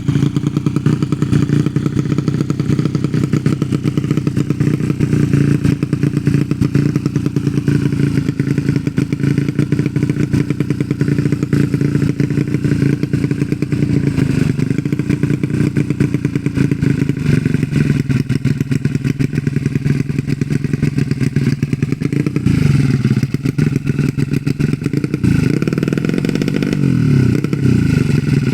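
A race-tuned 115 cc single-cylinder underbone motorcycle engine running steadily at idle, with its pitch dropping and rising a few times near the end as the throttle is worked.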